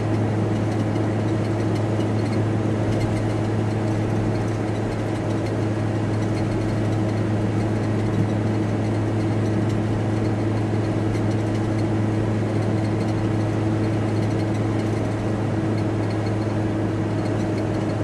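Steady drone of a VW T4 Transporter van being driven, heard from inside the cab: constant engine and road noise with a strong, even low hum.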